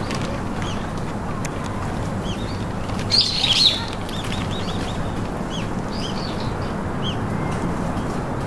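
Small birds chirping in short, repeated high chirps over a steady low background hum, with a louder, busier flurry of calls about three seconds in.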